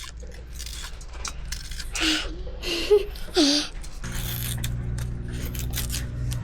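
Kitchen utensils scraping and clicking against cookware during cooking. Brief voice sounds come about two to three and a half seconds in, and a low steady hum starts about four seconds in.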